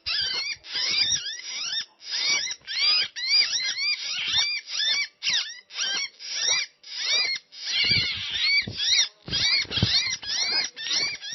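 Gelatik batu (cinereous tit) calls: rapid, dense chirping, each note a quick rise and fall in pitch, in runs broken by short gaps.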